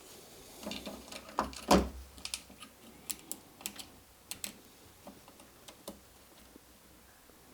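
Scattered small clicks and taps of parts being handled during repair of a model locomotive's drive train, with a louder knock about two seconds in and only sparse ticks in the second half.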